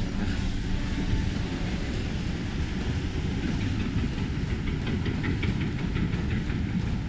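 Steady low rumble of wind and road noise while riding a bike, with a fast, faint ticking joining in about halfway through.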